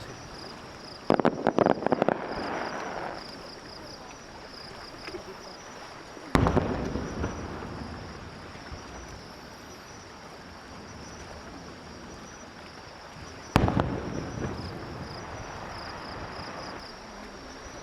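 Fireworks display: a quick cluster of crackling bangs about a second in, then two single shell bursts a few seconds apart, each booming and rolling away in a long echo.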